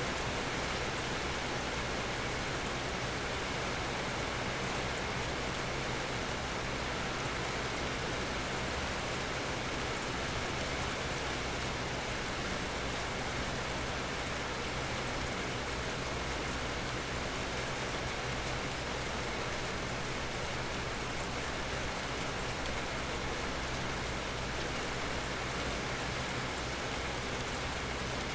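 Steady rain falling, an even wash of drops with no breaks or single loud events.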